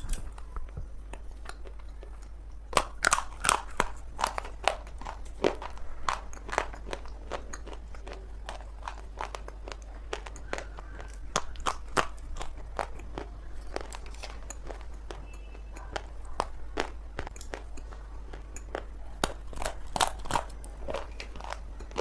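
Biting and chewing dry multani mitti (fuller's earth clay) close to the microphone: irregular crisp crunches and cracks that start about three seconds in, over a steady low hum.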